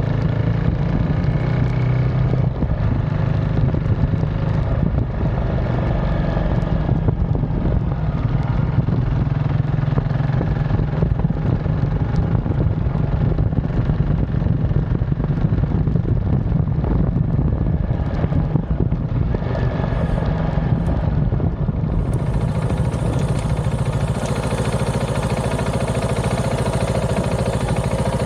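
KTM 690 SMC R single-cylinder engine running through an aftermarket DVR exhaust as the bike is ridden, its note holding fairly steady with small changes in pitch.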